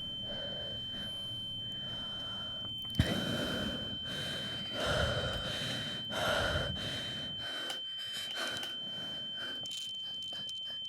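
A person breathing heavily in ragged gasps, about one breath a second, over a steady high-pitched ringing tone, with a single thump about three seconds in. Everything cuts off suddenly at the end.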